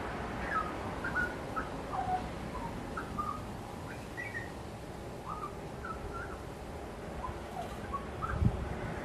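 Birds calling with short whistled chirps, one or two notes a second, over a low steady rumble; a single low thump about eight and a half seconds in.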